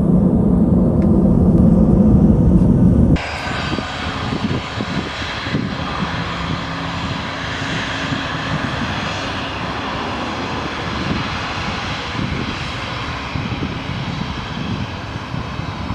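Jet airliner engines running with a steady roar. About three seconds in there is a sudden change from a louder, deeper rumble to a more even, brighter engine noise.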